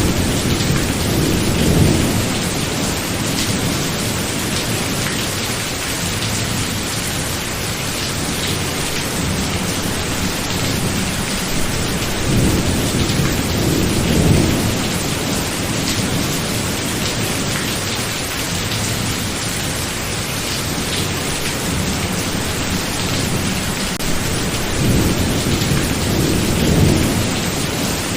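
Thunderstorm: steady heavy rain, with low thunder rolling in three times, near the start, around the middle and near the end.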